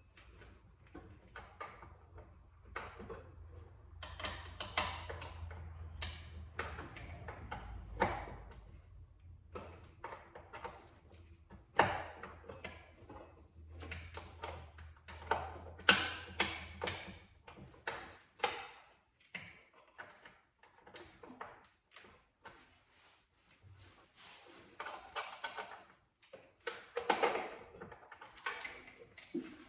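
Scattered clicks, knocks and clunks of hand tools and parts being handled while the blower motor is refitted. A faint low hum sits under the first several seconds and returns briefly around the middle.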